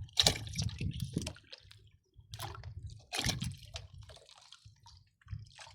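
Water splashing and dripping in a few short irregular bursts, over a low uneven rumble.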